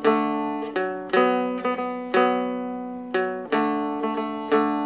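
Seagull Merlin M4 (a four-string, dulcimer-style instrument) played in a repeating strum pattern: a single root note, a strum, an up-and-down pick on the middle string, then another strum. The open strings ring on between the strokes.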